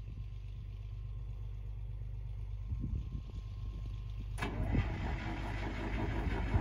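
Case 830 Comfort King tractor's propane-fuelled engine running steadily with a low rumble. About four seconds in, a louder, broad rushing noise joins it.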